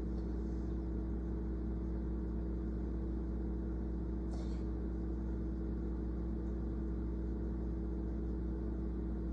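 Steady low hum of a running motor or appliance, with a short faint hiss about four seconds in.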